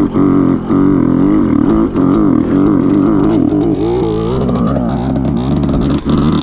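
Dirt bike engine running under throttle while being ridden, its pitch rising and falling over and over, with a few brief drops in the engine note.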